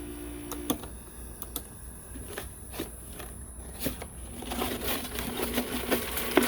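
Window air conditioner running, with irregular clicking and rattling that grows louder and denser about halfway through as a low hum comes back. It is the sound of worn fan motor bearings and an off-balance fan, which the owner judges to have definitely gone bad.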